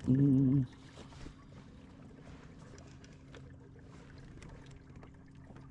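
A kayak's electric trolling motor running with a steady low hum over light water noise. A brief voice sound comes right at the start.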